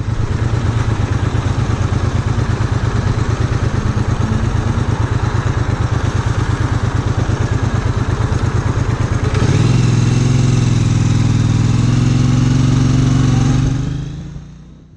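Triumph Bonneville America's parallel-twin engine idling with an even, pulsing beat, then picking up revs about nine and a half seconds in and running at a steadier, slightly rising pitch. The sound fades out near the end.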